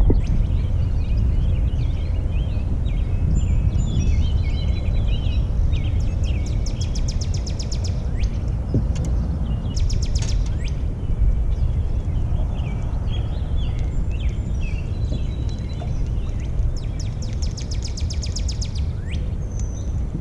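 Songbirds chirping, with three rapid high trills, over a steady low rumble.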